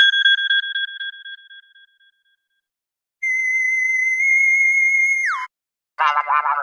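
iPhone ringtones and alert tones played one after another: a fluttering two-pitch electronic tone that fades out over about two seconds, then a steady high electronic tone held for about two seconds that ends in a quick downward slide, then a short warbling tone starting near the end.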